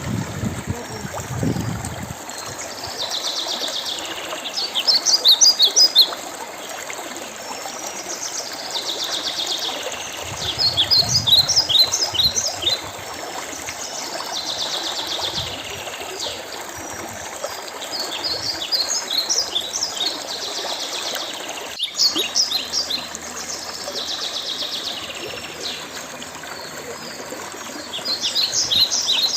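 A songbird singing the same phrase over and over, about every five seconds: a buzzy trill followed by a quick run of sharp, high chirps, over a steady background hiss.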